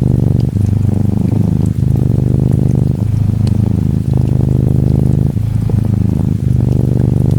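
Cat purring, a steady low pulsing that breaks briefly about once a second as it breathes in and out, with faint rain pattering behind it.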